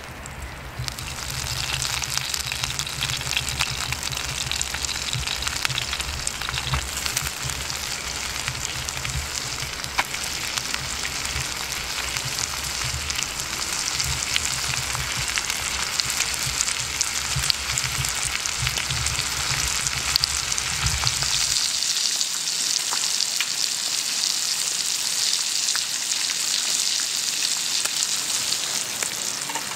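Food frying over a campfire: a steady sizzle with fine crackles that starts about a second in. A low rumble underneath stops about three-quarters of the way through.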